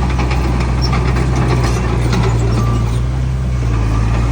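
Heavy diesel engine running steadily at an even speed, with light clanks and rattles over the top.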